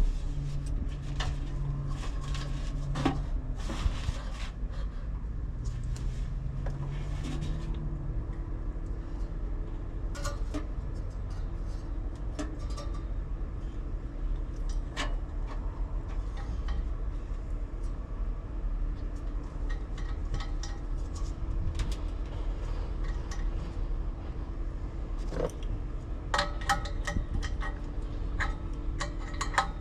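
Scattered metallic clinks and taps of tools and sheet-metal parts being handled, over a steady low hum with a faint constant tone.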